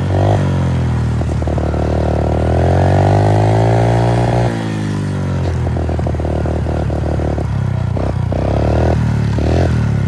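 Pit bike engine revving hard: its pitch climbs over the first few seconds, drops sharply about four and a half seconds in, then runs rough and choppy with short blips of throttle near the end.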